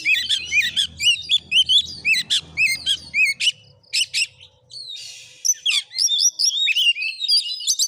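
Oriental magpie-robin (kacer) singing loudly: a quick run of varied whistled notes that swoop up and down, with a short pause about halfway through before the song picks up again.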